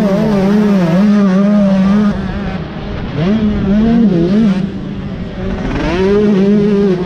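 Motocross dirt bike engine running under throttle. The engine note wavers up and down, eases off twice as the throttle is rolled back, and picks up again each time.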